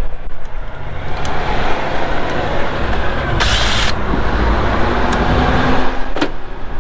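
Heavy-vehicle traffic noise, with a low steady engine rumble. About halfway through, a loud air hiss lasts about half a second.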